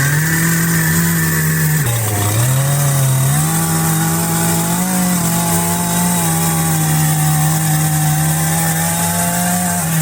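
Chainsaw cutting through wood, its engine held at high revs. The engine note sags briefly about two seconds in, picks back up, and drops off again right at the end.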